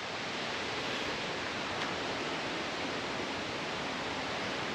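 A steady, even rushing hiss with no distinct events: outdoor ambient noise.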